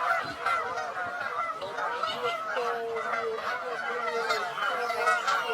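A group of Canada geese honking continuously, many calls overlapping, the agitated racket of geese fighting.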